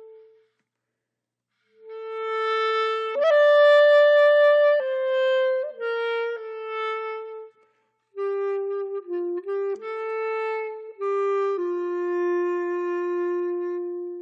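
Background music: a slow solo melody on a woodwind instrument, one held note at a time, in two phrases separated by a short pause, after about two seconds of silence at the start.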